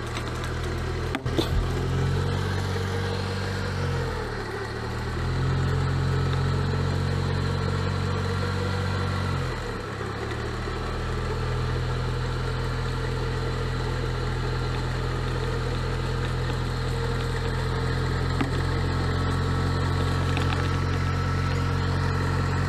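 Off-road vehicle engine running steadily. Its revs dip briefly and come back up twice, about four and about ten seconds in.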